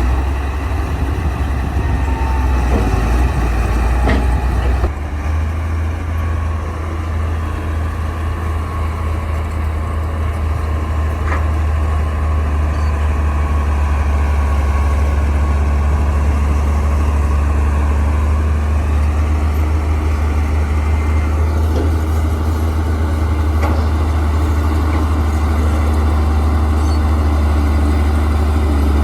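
Large diesel engine of a Komatsu D60-series bulldozer running steadily with a deep, loud drone. A few sharp metallic clicks come in the first four seconds, and the engine note shifts about five seconds in.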